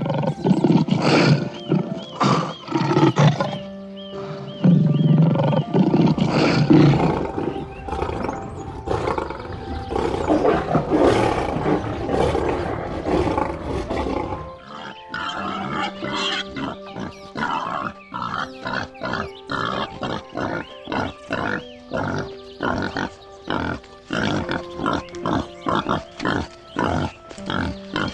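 Loud, rough animal calls over background music for about the first half, then mainly the music with a quick regular beat.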